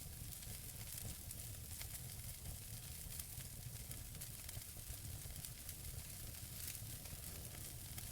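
Wood fire burning in a fireplace: a steady hiss of burning logs with scattered sharp crackles and pops, over a low rumble.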